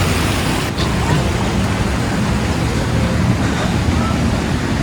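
Loud rushing noise of wind buffeting the microphone, mixed with ocean surf, heaviest in the low rumble, with a brief dip about a second in.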